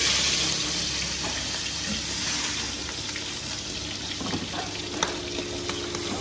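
Meat filling for bánh xèo frying in a wok of deep hot oil: a loud sizzle that starts suddenly and eases a little over the next few seconds, with a few light clicks near the end.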